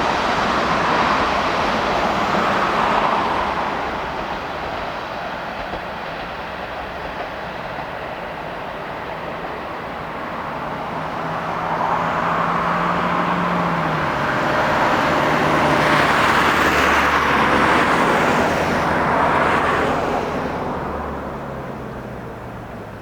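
Four-car diesel railcar train passing by on the Tsuyama Line, wheels running on the track. Its engine drone drops in pitch twice as the cars go by, and the sound fades away near the end.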